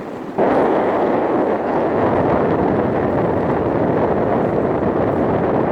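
Steady rushing noise of a car moving on a wet road, heard from inside the cabin. It jumps suddenly louder about half a second in and then holds steady.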